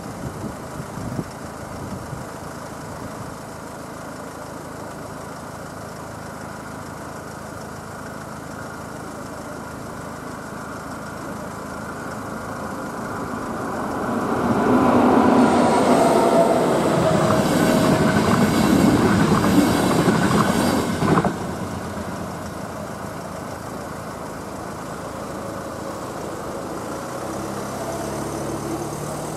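A passenger train passing over a level crossing: its rolling wheel and rail noise builds up, stays loud for about six seconds, then cuts off abruptly as the last car clears. Near the end, road vehicles pull away over the crossing.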